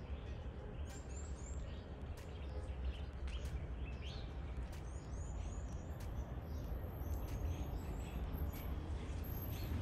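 Small birds chirping: short, high chirps in small clusters of two or three, over a steady low background rumble.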